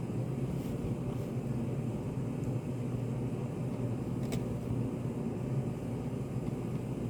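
Study cafe room ambience: a steady low hum of air handling and room noise, with a few faint small clicks, the sharpest about four seconds in.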